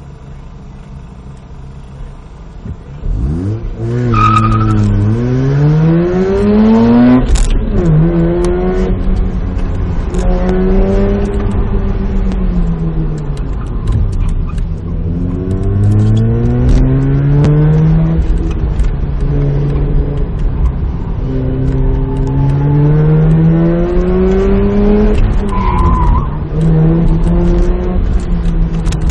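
Car engine idling at about 800 rpm, then launching about three seconds in and being driven hard, its note repeatedly rising and falling as it accelerates and lifts through tight corners at up to about 5,200 rpm. It is heard from inside the cabin, with short tyre squeals on the launch and again near the end.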